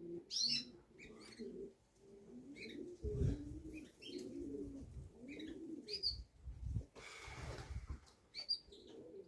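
Racing pigeons cooing, a run of low warbling coos one after another, with short high chirps in between and a brief rustle about seven seconds in.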